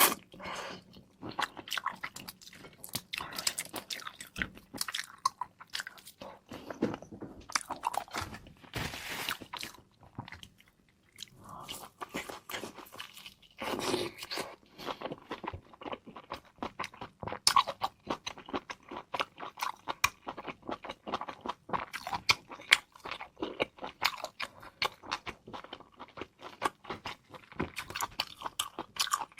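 A person crunching and chewing seafood, a dense run of sharp, irregular crackles.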